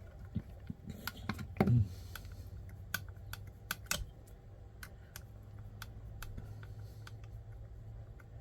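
Scattered light clicks and taps of small screws and plastic chassis parts being handled and fitted, a few per second at first and sparser later, over a steady low hum.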